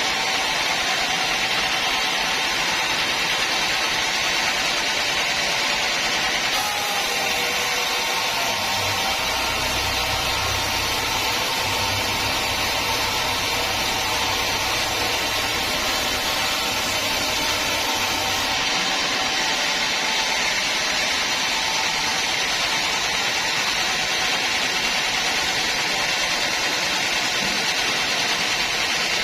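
Band sawmill running steadily, a continuous mechanical whir and hiss. A low hum joins in from about seven to eighteen seconds in.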